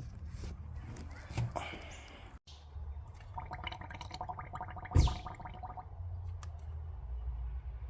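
A quick run of gurgling pulses, like liquid glugging, lasting a couple of seconds, with one loud knock partway through.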